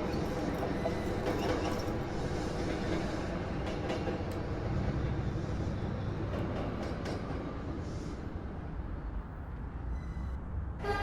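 New York City Subway car running between stations, heard from inside the car: a steady rumble of wheels on rail with scattered clicks, easing off a little near the end.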